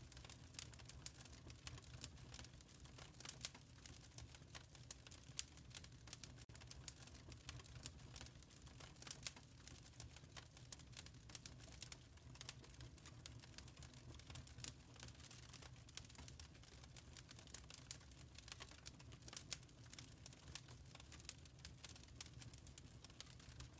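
Fire crackling faintly in a stone fireplace: dense, irregular small pops and snaps over a low steady rumble.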